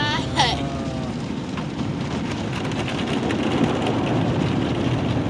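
Automatic car wash spraying and washing over the car, heard from inside the cabin as a steady rushing wash noise. A brief falling vocal sound comes within the first second.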